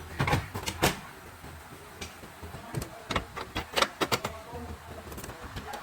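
Factory assembly-line noise: irregular sharp knocks and clatters of parts being handled and fitted, over a steady low machinery hum.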